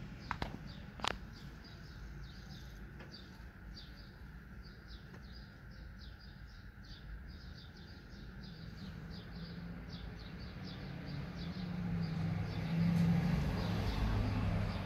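A bird chirping over and over, short high chirps about three a second, over low street noise. Two sharp clicks come in the first second and a half, and a low rumble swells near the end.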